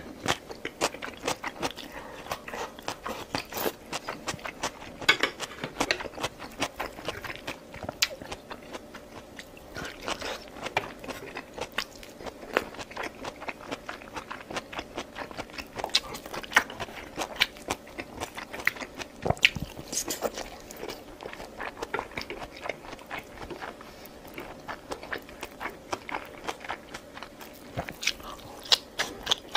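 A person chewing and biting food close to the microphone, with a steady stream of short crunchy clicks and mouth sounds.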